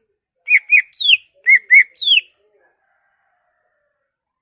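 Cucak ijo (green leafbird) singing two matching phrases, each of two quick chirps followed by a downward-sliding whistle, then falling silent.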